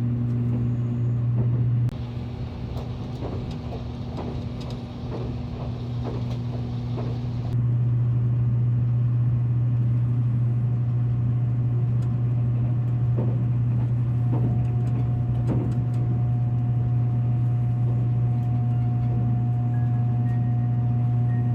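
Train running, heard inside the carriage: a steady low hum. About two seconds in it switches suddenly to a noisier rumble with scattered knocks, and the hum returns suddenly some five seconds later.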